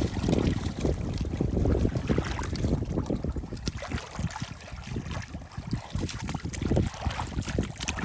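Uneven splashing and sloshing in shallow water, with wind buffeting the microphone.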